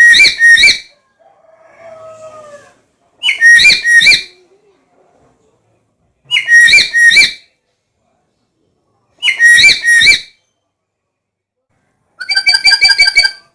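Black-capped lory giving loud whistled calls, the same call repeated four times about every three seconds, with a fainter, lower call just after the first. Near the end it gives a quick run of short notes.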